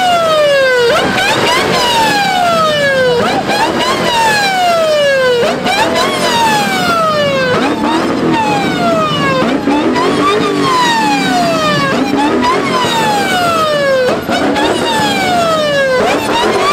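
Emergency vehicle siren wailing, its pitch jumping up quickly and then sliding slowly down, about once every two seconds.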